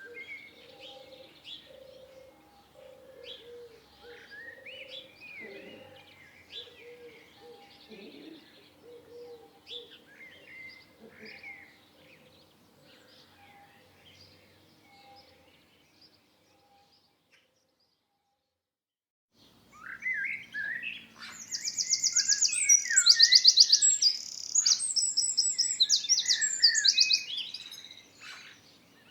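Songbirds chirping with a low cooing repeated over and over. After a few seconds of silence, a much louder bird sings a fast, high, trilling song.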